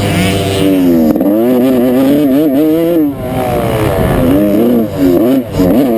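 Dirt bike engine under hard riding, its pitch repeatedly climbing and dropping as the throttle is opened and closed. Wind rushes over the microphone in the first second.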